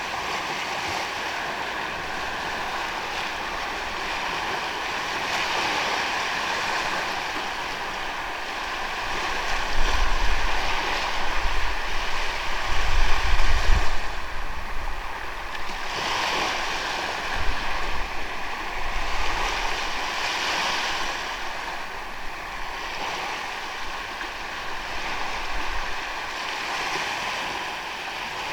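Waves washing onto a sandy beach, the surf swelling and falling away every few seconds. Wind rumbles on the microphone around the middle.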